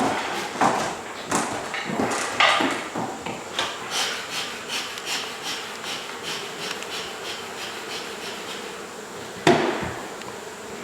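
Repeated knocking on a wall during a hive cutout: an irregular run of knocks, then a steady series of about two to three strikes a second that fades off, and one sharp, loud knock near the end.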